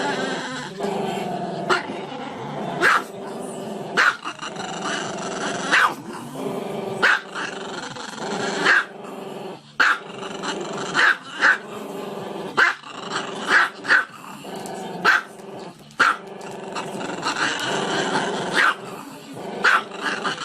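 Dog growling continuously, breaking into sharp barks about once a second.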